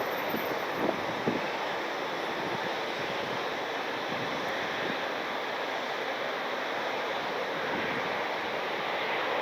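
Steady, distant jet engine noise from airliners at the airport, swelling slightly near the end.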